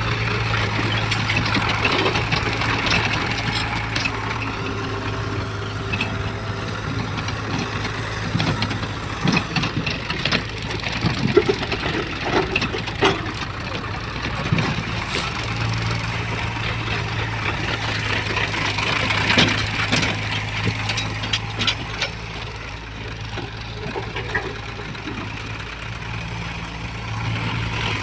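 Heavy diesel machinery running steadily at a worksite, with a cluster of sharp metallic knocks and clanks near the middle.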